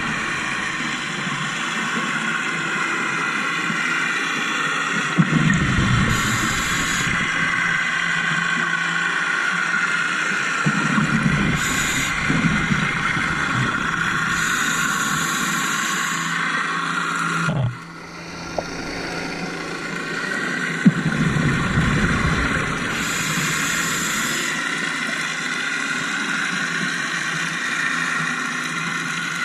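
Scuba diver breathing through a regulator underwater: a hiss on each inhalation alternates every few seconds with a rumbling burst of exhaled bubbles, over a steady underwater drone.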